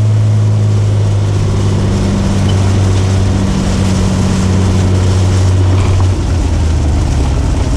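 Cessna 210K's single piston engine and propeller heard from the cabin as a steady low drone at reduced power around landing, with the note stepping down about six seconds in as power comes off.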